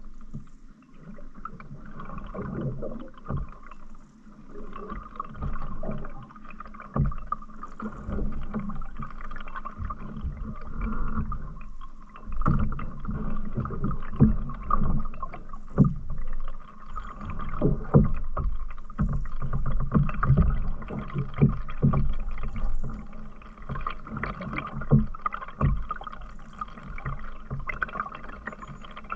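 Canoe being paddled on a river: paddle strokes and water noise with many irregular low knocks and thumps.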